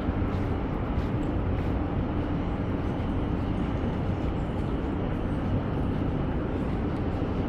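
Steady background rumble with a faint low hum, with no distinct events.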